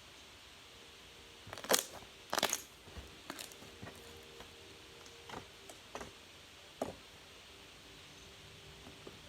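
A series of short, sharp clicks and crackles, irregularly spaced, the loudest two close together about two seconds in, over a faint steady hum.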